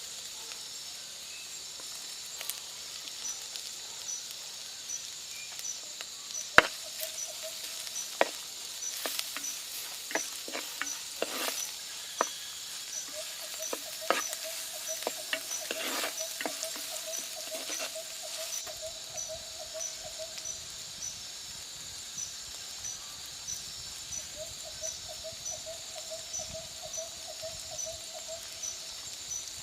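A steady high hiss with a faint chirp repeating about twice a second, over scattered sharp clicks and knocks that cluster through the first half. A lower pulsing trill comes and goes in two stretches in the second half.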